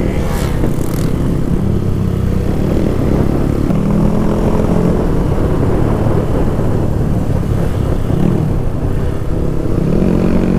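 Motorcycle engine running, its note drifting up and down a little, over a steady low rush.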